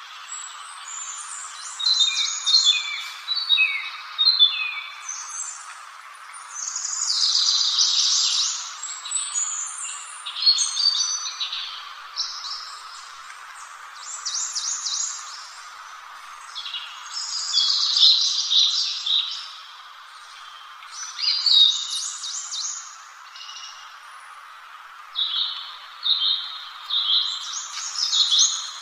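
A songbird singing phrases of rapid, varied high notes, with short pauses of a second or two between them, over a steady background hiss.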